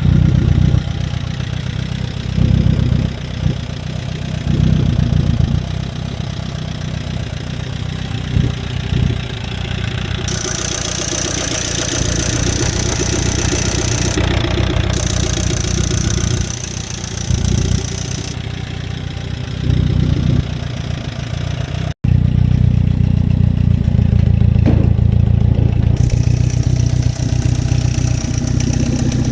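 Chevy Captiva engine running with a mechanical noise, the sign of a bad used replacement engine, rising in brief swells several times. Partway through there is a sudden cut, and the engine carries on louder afterwards.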